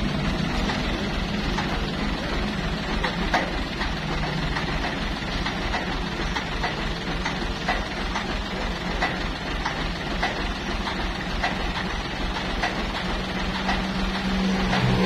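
Heavy truck engine running low and steady, with road noise and scattered light ticks; its hum is strongest at the start and again near the end.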